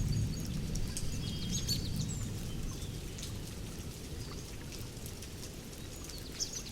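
Thunderstorm ambience: a low thunder rumble dying away over the first few seconds under steady rain, with birds chirping throughout in short, high, repeated calls.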